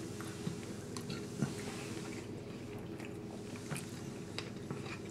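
Quiet chewing and mouth sounds from eating fried rice, with a few faint clicks of a plastic fork in a takeout container, over a steady low hum.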